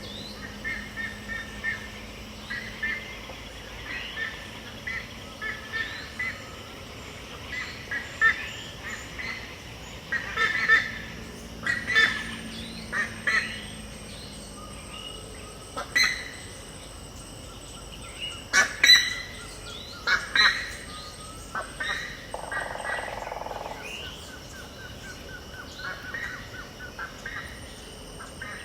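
Dawn chorus of wild birds: many short calls overlapping, several loud harsh ones in the middle, over a steady high buzz of insects.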